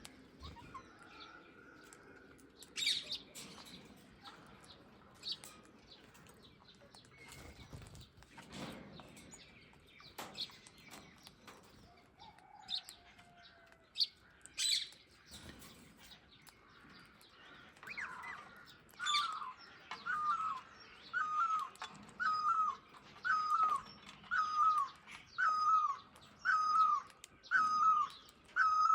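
Birds calling: scattered chirps and a few sharp, shrill calls. About two-thirds of the way in, one bird starts repeating the same short rising-and-falling call, a little more than once a second.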